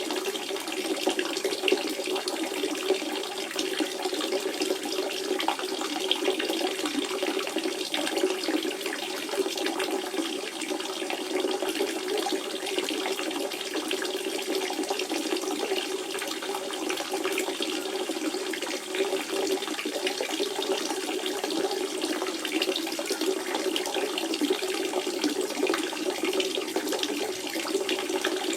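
Natural spring water running steadily, a continuous splashing flow with a full, low burble under a brighter trickle.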